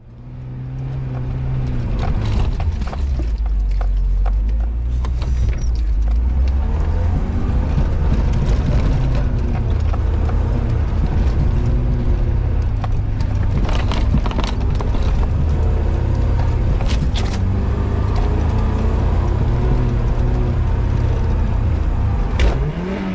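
A four-wheel-drive vehicle's engine running under load in low range as it drives through soft sand, a steady low drone with occasional knocks and rattles from the vehicle over the ruts. The revs climb and drop again near the end.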